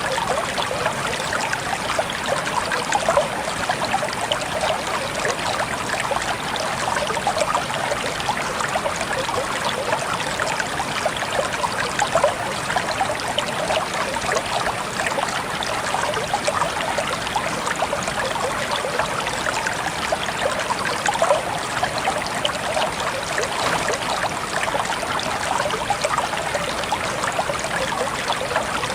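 Steady trickling water: a continuous stream of small splashes and droplets, even throughout with no breaks.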